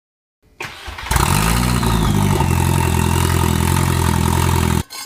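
A car's turbocharged 1.8-litre four-cylinder engine starting, flaring briefly in revs, then settling into a steady idle before cutting off abruptly.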